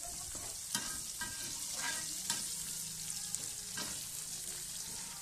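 Cashew nuts sizzling in hot oil in a wok, a steady hiss, while a metal spoon stirs them, clinking and scraping against the pan several times.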